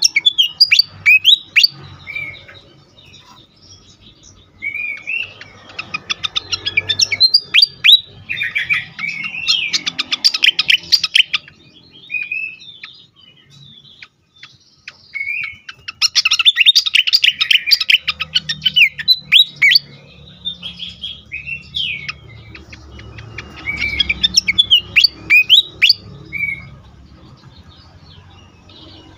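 A sikatan kipas singing fiercely in fast bouts of sharp, sliding chirps and twitters, broken by short pauses, the kind of full-on song used as a lure and to stimulate other birds to sing.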